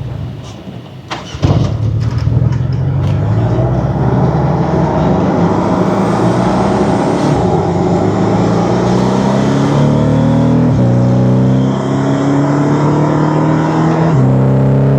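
Porsche 718 Cayman's turbocharged flat-four accelerating hard through the gears, its pitch climbing and dropping sharply at two upshifts, about 11 and 14 seconds in, with turbo intake hiss through a RaggDoll Motorsports turbo inlet pipe. A few sharp knocks come just before the pull begins.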